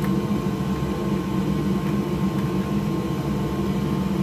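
Steady mechanical hum of a running fan or motor, even in level throughout, with a few faint light ticks.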